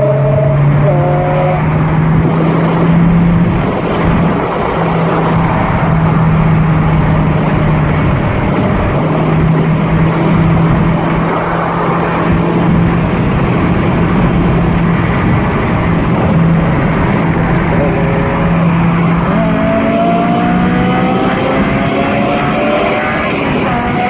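A car on the move: the engine holds a steady pitch under a wash of road and wind noise, then its note climbs gradually over the last few seconds as it accelerates.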